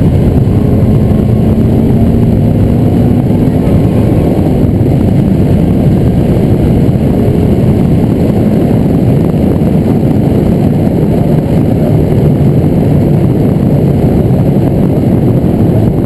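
Honda Civic EK4's 1.6-litre VTEC four-cylinder engine pulling at track speed, heard from inside the cabin together with road noise: a loud, steady low rumble with little change in pitch.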